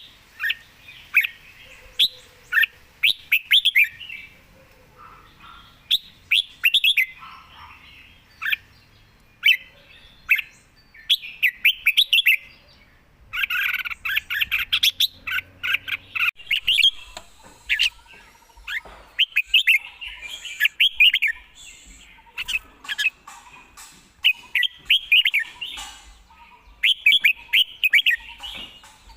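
Red-whiskered bulbul singing: short, quick phrases of clear whistled notes, repeated every second or two.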